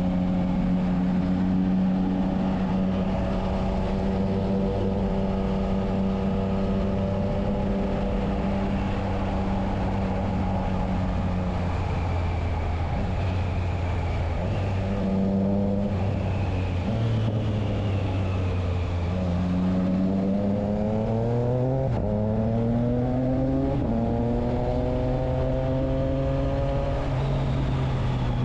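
Triumph Trident 660's inline three-cylinder engine through a Spark exhaust with its dB killer fitted, running at a steady pitch for the first half. Then it pulls up through the gears: the pitch rises, drops suddenly at each of two gear changes, and settles again near the end.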